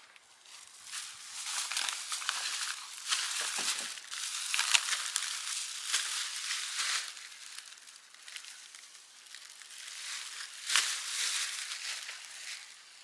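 Irregular crinkling and rustling, a crackly handling noise that comes in waves and dips around the middle before picking up again.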